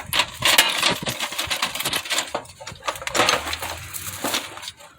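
Metal hand tools clinking and rattling against each other in a toolbox as they are rummaged through: many quick light knocks and jingles.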